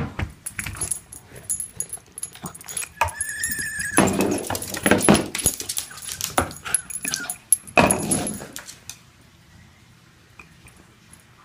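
A dog whining and making excited yelping barks; a held high whine about three seconds in, then a loud run of yelps and barks that stops about nine seconds in.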